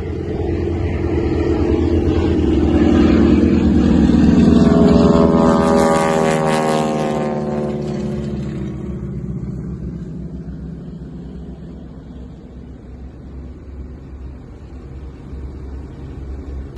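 An engine passing close by: it grows louder to a peak about four to five seconds in, drops in pitch as it passes, then fades away.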